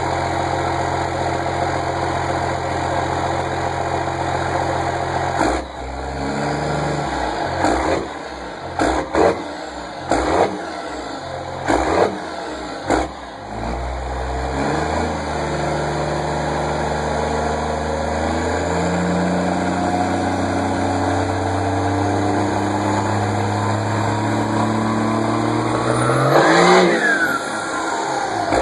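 Diesel engine with an exhaust brake: idling steadily, then blipped several times in quick succession, then held at higher speeds that step up several times, ending in one sharp rev that rises and quickly falls away.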